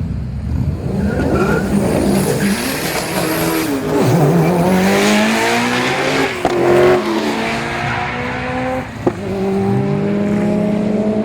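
Car engine accelerating hard down a drag strip, its pitch climbing steadily and dropping sharply at gear changes about six and a half and nine seconds in.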